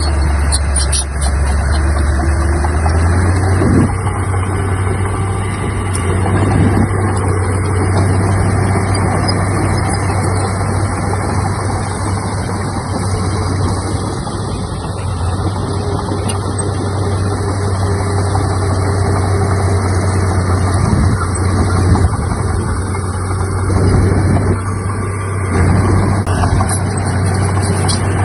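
Heavy diesel engine of earthmoving machinery running with a steady low drone; its note shifts about three seconds in.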